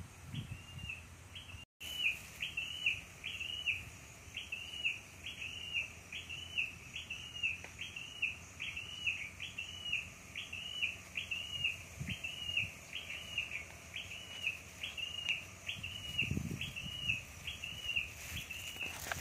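A bird calling one short rising-and-falling note over and over, about two a second, at an even pace. A couple of dull low thumps come in the middle and near the end.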